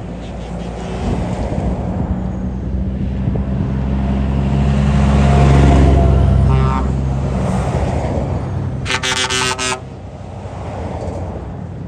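Trucks in a convoy driving past, their engine noise swelling midway as one passes close. There is a short horn toot about six and a half seconds in and a louder horn blast lasting under a second about nine seconds in.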